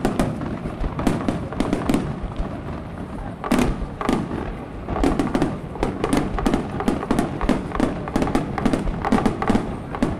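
Daytime fireworks bursting overhead: a run of sharp bangs and cracks, spaced out at first and coming thick and fast from about halfway through.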